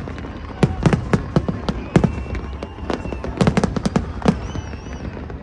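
Fireworks bursting overhead: many sharp bangs and crackles in quick, irregular succession, coming in clusters over a steady low rumble.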